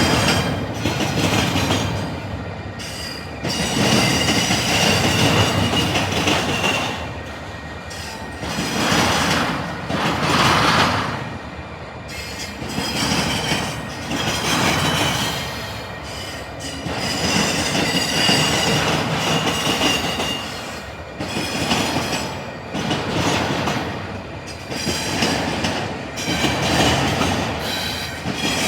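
Freight cars of an intermodal train rolling past, their wheels clacking over the diamond crossing in repeated loud surges every couple of seconds, with high-pitched wheel squeal in stretches.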